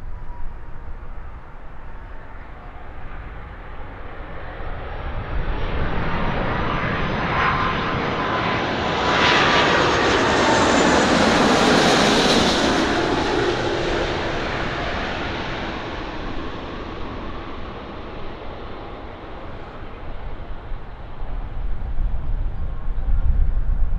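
Jet airliner passing close by, its engine noise building to a peak about halfway through and then fading, with a whine that falls in pitch as it goes past.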